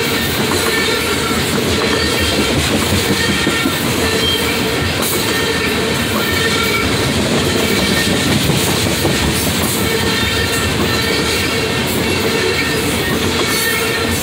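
Freight train of tank cars rolling past: a steady rumble and clatter of wheels on rail, with a few faint steady whining tones over it.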